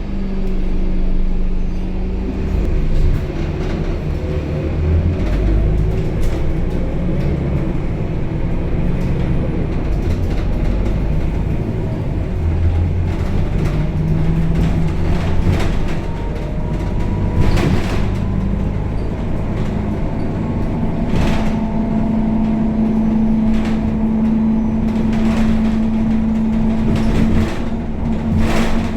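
Scania K270UB city bus running, heard from inside: a steady low diesel drone whose pitch shifts several times as the bus changes speed, with occasional short rattles and knocks from the body and fittings in the later part.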